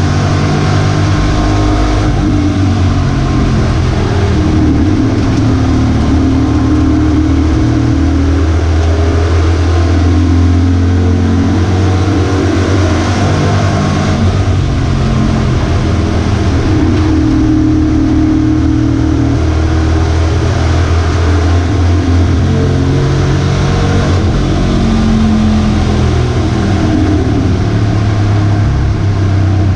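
Loud V8 race-truck engine at racing speed, its pitch shifting up and down every few seconds as the throttle opens and closes.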